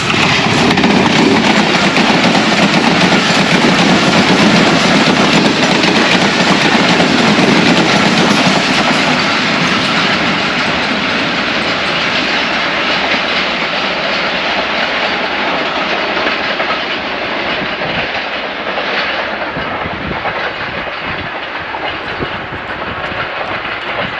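Express passenger train hauled by a ZCU-20 diesel-electric locomotive passing through the station: loud rush of the locomotive and coaches on the rails, slowly fading as the train moves away.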